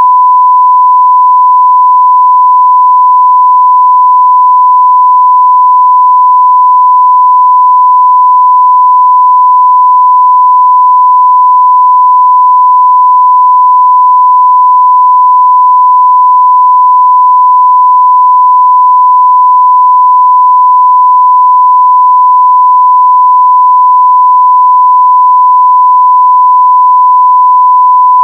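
Continuous 1 kHz sine-wave test tone at full level (0 dB), a single steady pitch without change.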